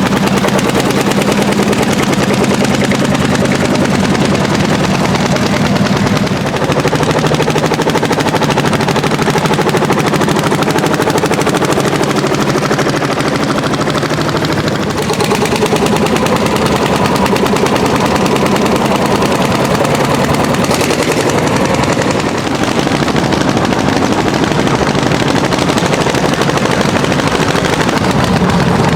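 Landini L55 hot-bulb single-cylinder two-stroke diesel tractor engine running hard under plowing load, a fast, even string of loud exhaust beats.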